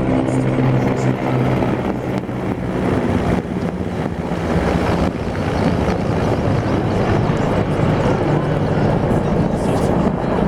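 Helicopters flying past: a steady, loud rotor-and-engine noise, with a low humming tone that fades away over the first couple of seconds.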